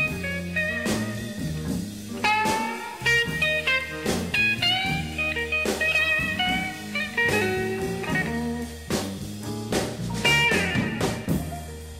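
Recorded electric blues: a lead guitar playing bent, sliding notes over a bass line and drums.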